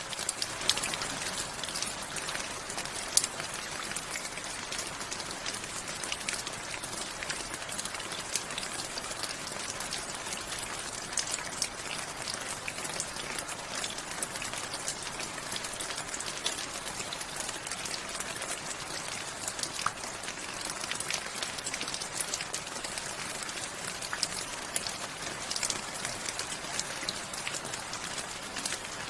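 Steady rain falling, with a constant hiss and many individual drops ticking sharply on a surface.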